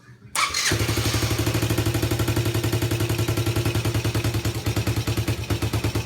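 Yamaha Badger 80 ATV's single-cylinder four-stroke engine firing right up about a third of a second in on its first start after a top-end rebuild with new valves, then running at a steady, rapidly pulsing idle. The owner says the idle still needs work.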